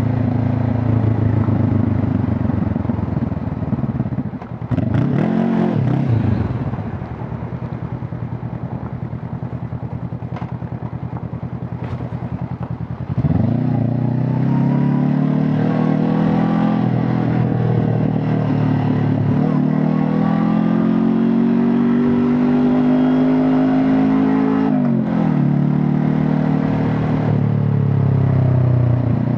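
Honda CB500 Hornet's parallel-twin engine and exhaust under way. It cruises, blips its revs briefly about five seconds in, then runs quieter and lower on a closed throttle. Near the middle it pulls hard with the pitch climbing steadily, drops at a gear change and climbs again.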